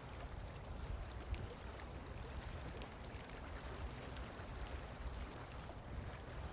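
Steady low rumble of outdoor wind on the microphone, with a few faint, short, high ticks.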